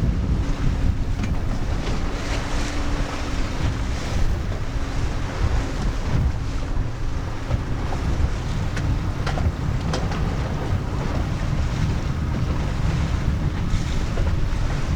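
Wind buffeting the microphone, a steady rumbling rush, with water noise and a faint steady hum under it for the first half.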